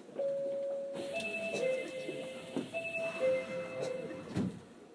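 Door-closing chime on an Osaka Metro 31 series subway car: a short run of steady electronic tones at a few different pitches as the doors close, ending with a dull thud of the sliding doors shutting about four and a half seconds in.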